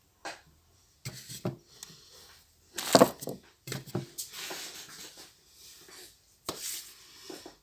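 Irregular knocks, clicks and scraping of objects being handled, with the loudest knock about three seconds in.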